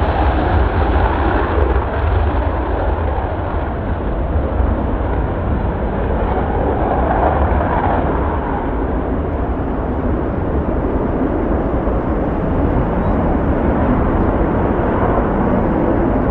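Military jet engines running: a steady, loud rumble, heavy in the low end, with no clear rise or fall.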